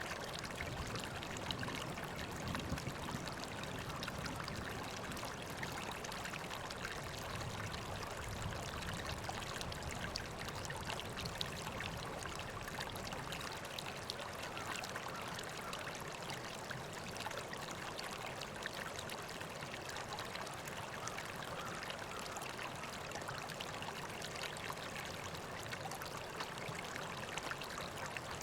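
River water flowing and trickling steadily over stones, a continuous babbling rush with a little more low rumble in the first half.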